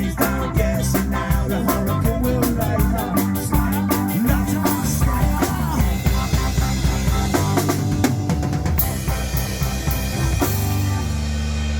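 A live rock band with ska leanings playing at rehearsal, led by a drum kit with a fast, even hi-hat beat over bass and guitar. About halfway through the beat breaks up into fills and cymbal crashes, and near the end the band settles on a long held low chord.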